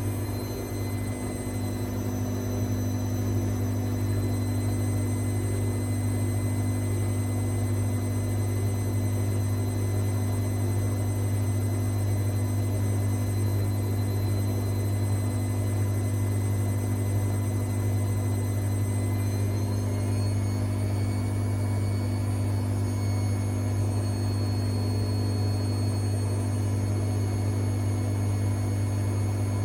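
AEG Lavamat Exclusiv 6469AFL washing machine running steadily with a low hum and a whine, its pitch stepping slightly higher about twenty seconds in as the motor speed changes.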